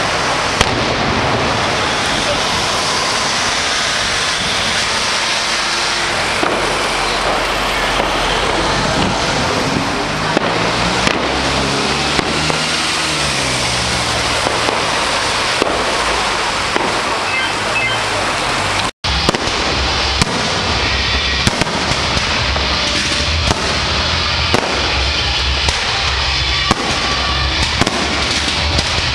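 Fireworks display: dense crackling of many fireworks with frequent sharp bangs, broken by a short cut about two-thirds of the way through.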